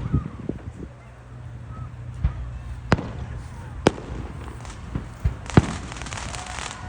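Fireworks going off: sharp single bangs at irregular intervals, a second or more apart, with smaller pops between them. Crackling fireworks start up near the end.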